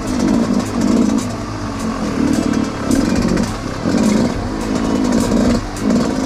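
Dirt bike engine revving in repeated throttle surges, about one a second, as it rides a rough trail. Sharp clicks and clatter are scattered through it.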